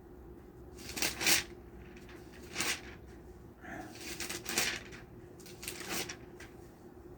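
Pages of a Bible being turned: a few brief paper rustles, about four over several seconds, over a faint steady hum.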